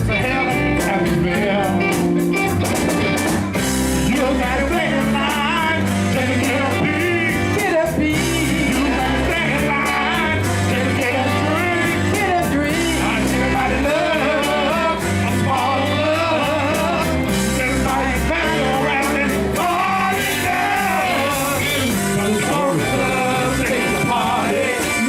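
Southern soul band playing a steady groove with bass and drums, a lead melody bending in pitch over it.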